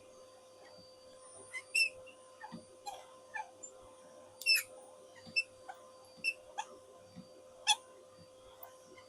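Irregular light clicks and taps, a dozen or so scattered at uneven intervals, over a faint steady hum.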